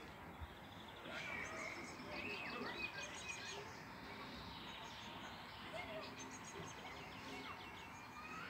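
Songbirds singing in the trees, a mix of short chirps and rapid high trills, over faint steady outdoor background noise.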